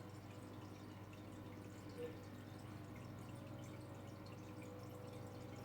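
Quiet room tone: a steady low hum with faint scattered ticks, and one brief short tone about two seconds in.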